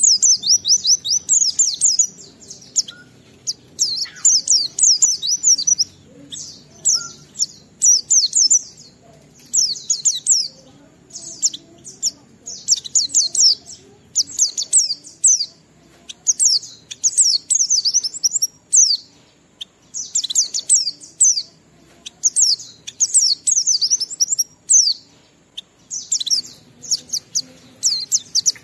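White-eye (pleci) singing a fast, high twittering song: phrases of rapid chirps one to two seconds long, with brief pauses between them.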